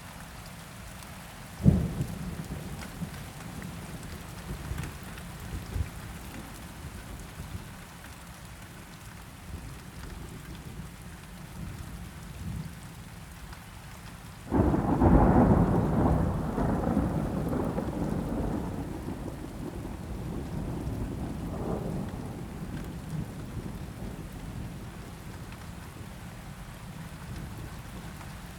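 Steady rain with a sudden loud thunderclap about halfway through that rolls and fades away over several seconds. A single sharp crack sounds near the start, with a few small pops after it.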